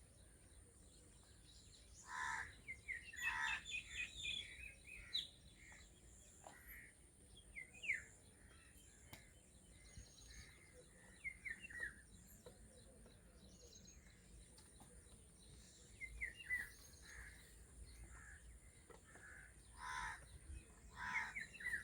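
Birds calling outdoors: scattered short chirps and calls throughout, with louder clusters of calls about two to four seconds in and again near the end.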